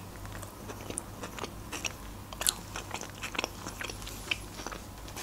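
Close-up chewing of a mouthful of KFC chicken burger, bun and breaded chicken, heard as irregular small crunchy clicks, the loudest about halfway through.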